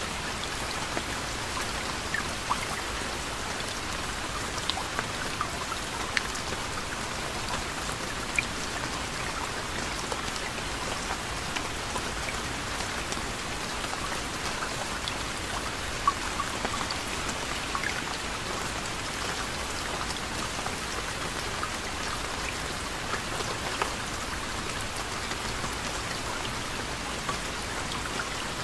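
Steady gentle rain falling, an even hiss with scattered sharper ticks of single drops hitting a surface.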